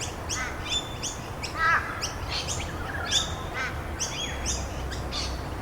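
Several songbirds chirping in quick, overlapping high notes, with a lower looping call breaking in a few times, over a steady hiss of rain.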